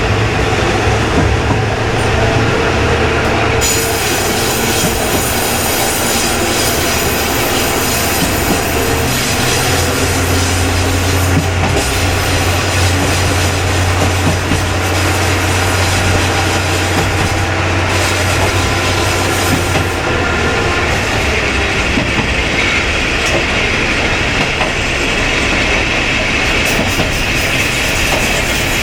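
KiHa 20 diesel railcar running along the line, heard from inside: the diesel engine's steady hum under a constant rumble and hiss of wheels on rail. About twenty seconds in, the engine hum and the high wheel hiss fall away, leaving the rolling noise.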